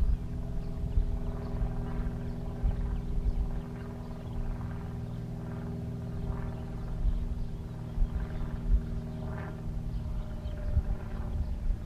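Boat's electric trolling motor running steadily: a hum of several steady pitches over a low rumble.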